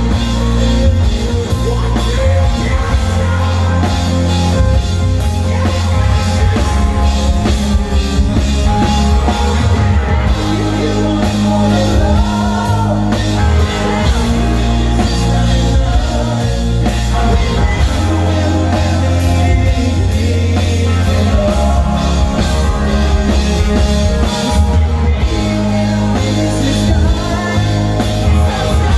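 Rock band playing live and loud: drum kit, bass and electric guitars, with some singing or shouting over the instruments.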